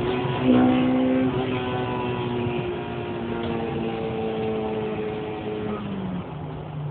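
Honda VTEC four-cylinder engine heard from inside the car under way, loudest about half a second in, then its note sliding slowly down as the revs fall, and dropping lower near the end.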